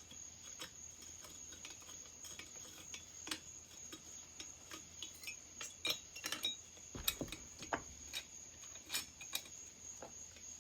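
Scattered light metallic clicks and clinks of tools and small chainsaw parts being handled during teardown, with one duller low knock about seven seconds in. A faint steady high-pitched whine sits under it throughout.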